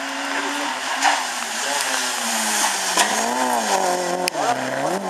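Rally car engine revving hard on approach and through a corner, its pitch climbing and falling with gear changes and lifts off the throttle, dropping sharply near the end. A few sharp cracks cut through it.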